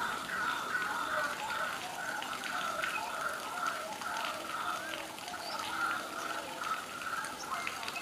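A bird calling a steady run of short repeated notes, about two a second, with faint ticks among them.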